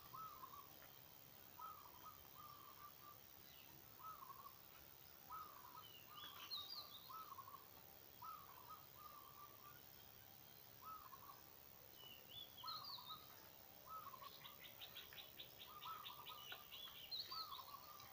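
Faint birdsong: one bird repeats short calls about once a second, with higher chirps from other birds and a quick high trill near the end.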